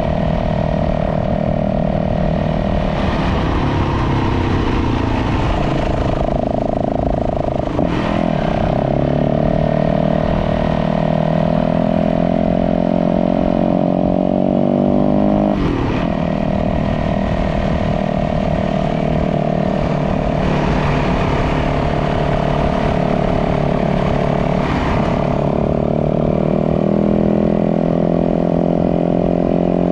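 Dirt bike engine running steadily under way, its pitch rising and falling with the throttle, with a few abrupt changes in engine note.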